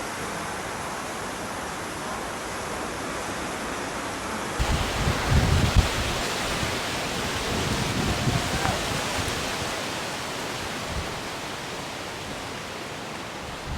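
Tropical storm outdoors: a steady rush of wind and water. About four and a half seconds in, the sound changes abruptly and gusts start buffeting the microphone with low rumbles.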